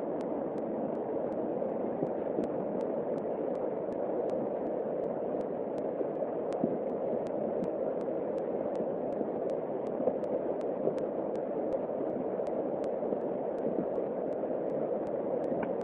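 Floodwater flowing fast, a steady, even rush of water.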